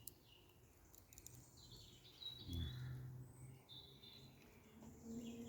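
Faint woodland birds: a few short high chirps over quiet background, with a brief low sound about two and a half seconds in.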